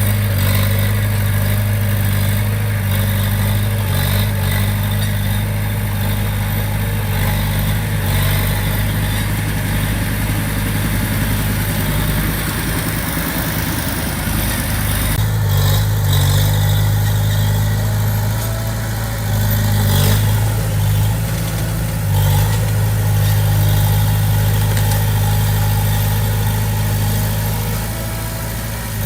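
Diesel engine of a Komatsu D20P crawler bulldozer running steadily as it works, its note shifting slightly a few times.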